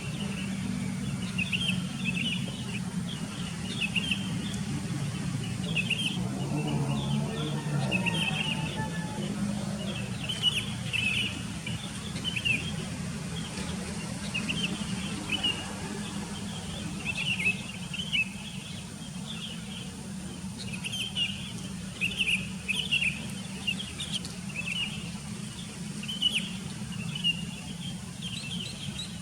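Birds chirping repeatedly in short, quick calls, often several in close succession, over a steady low hum.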